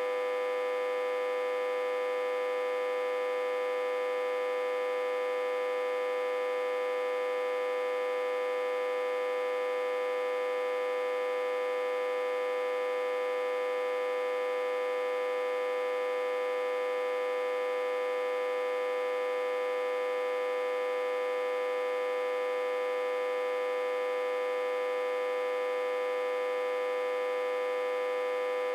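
Autotransformer humming, reverse-connected to a step-down transformer and fed about 60 to 80 V: a steady, fairly high-pitched hum with a buzzy edge of many overtones, unchanging throughout.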